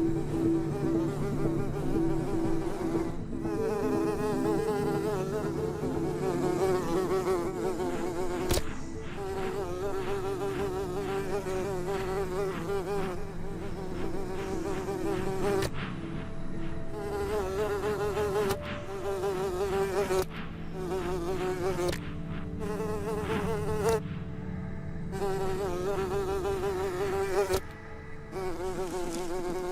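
Buzzing of small flies in flight: a wavering hum with several overtones that breaks off and starts again many times.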